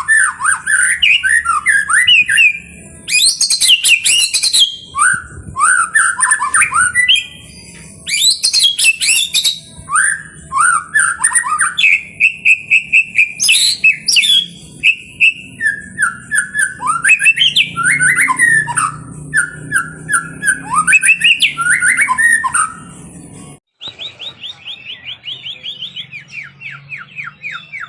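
White-rumped shama (murai batu) singing a loud, varied song of whistled phrases, trills and sharp clicking notes. After a brief break near the end, it changes to a fast run of repeated notes.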